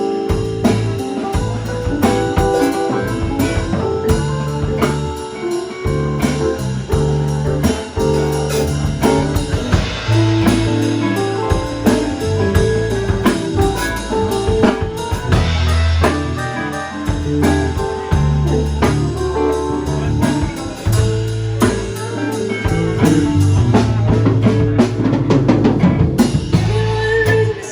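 Band playing an instrumental blues section of the song, with drum kit, bass and electric guitar.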